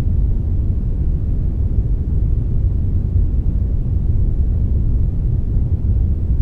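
Steady brownish noise, a blend of brown and white noise: an even, deep noise with little hiss on top, unchanging throughout.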